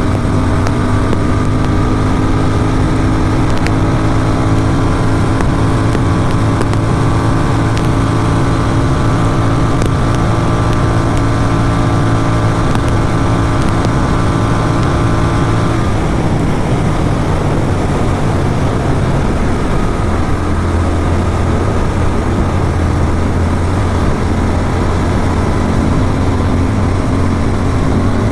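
Motorcycle engine running through an aftermarket Atom exhaust at a steady highway cruise, with wind rushing over the microphone. The engine note holds steady for about the first sixteen seconds, then changes and settles into a lower, steady drone from about twenty seconds in.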